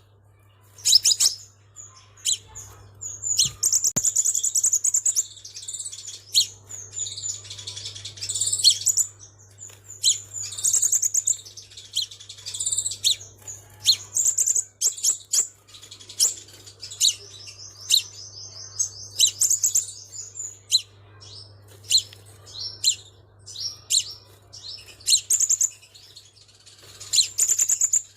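Xác pháo sunbird singing: a rapid run of short, high-pitched chirps and fast trills, with a longer trill about two-thirds of the way through.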